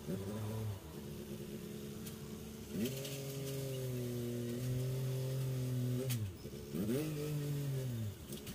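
Tractor engine revving up and dropping back repeatedly: it rises about three seconds in, holds steady, then falls and picks up again twice near the end. A couple of sharp clanks are heard along with it.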